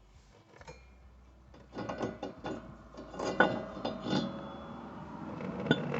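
Irregular metallic clinks and clanks of steel brake parts being handled, starting about two seconds in, over a faint low hum.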